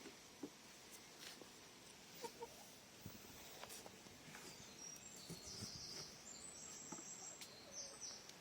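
A chicken clucking softly now and then, faint, with scattered light taps.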